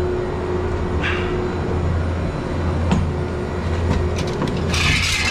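Steady low mechanical hum with a faint constant tone above it, a single click about three seconds in, and a short hissing rustle near the end.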